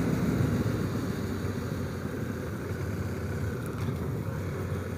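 2017 Honda Africa Twin's parallel-twin engine running steadily under way, under a steady rush of wind noise.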